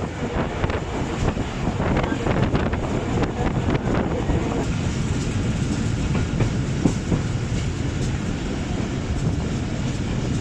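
Passenger train running at speed: steady rumble of the coaches with the wheels clicking over rail joints, the clicks densest in the first half.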